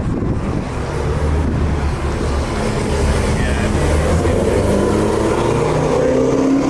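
A car engine running with a low, steady rumble, with people talking in the background.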